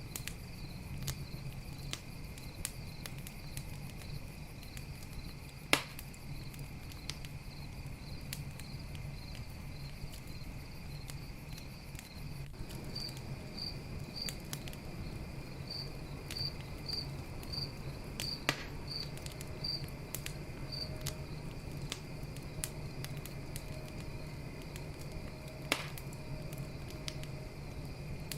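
Campfire crackling with frequent small snaps and three sharp, loud pops, over a steady low rumble, while crickets chirp steadily at night. A run of louder cricket chirps comes around the middle.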